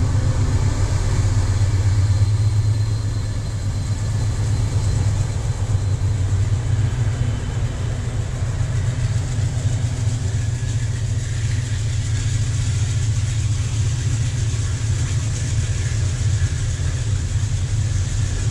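Diesel freight locomotives running past close by, a steady deep engine drone, with the rolling of the freight wagons adding a hiss from about halfway through.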